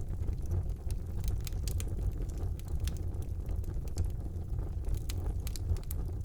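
Wood fire burning in a fireplace: a steady low rumble of the flames with irregular sharp crackles and pops of the burning wood.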